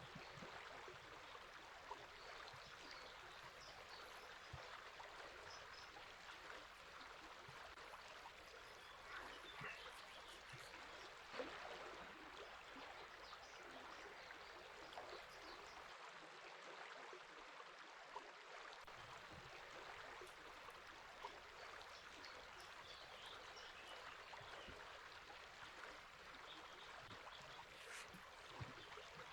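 A river running, a quiet steady rush of water, with faint short bird calls over it.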